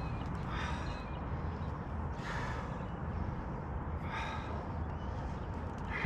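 A person breathing heavily: three breaths, roughly one every couple of seconds, over a steady low rumble.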